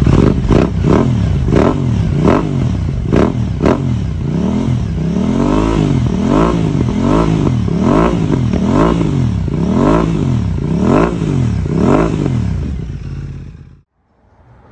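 Twin-cylinder sport motorcycle engine revved in quick, repeated throttle blips, the pitch climbing and dropping about twice a second, before the sound cuts off near the end.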